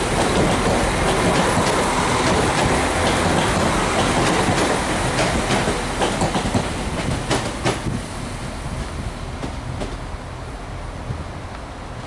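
NIR CAF Class 4000 diesel multiple unit running along the platform and away, with a steady rail rumble and repeated clicks of its wheels over rail joints. The sound fades over the last few seconds as the train draws away.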